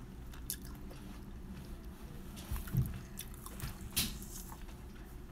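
A person chewing soft food with the mouth closed, with a few scattered wet mouth clicks.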